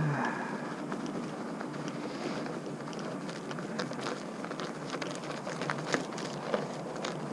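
Bicycle tyres rolling over ice and crusted slush: a steady gritty hiss broken by scattered crackles and ticks, with a few sharper cracks near the end.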